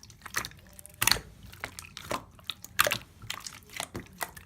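A run of irregular sharp clicks and crunches, several a second, some louder than others.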